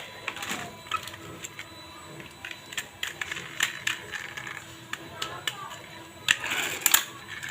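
Toy police cars clicking and clattering as they are handled, with a denser, louder rattle about six seconds in.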